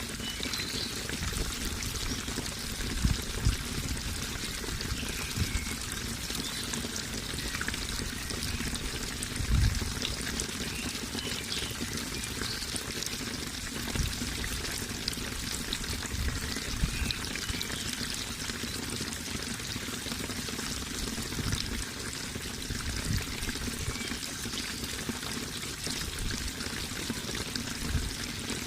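Water flowing steadily with an even rushing hiss, broken by a few brief low thuds.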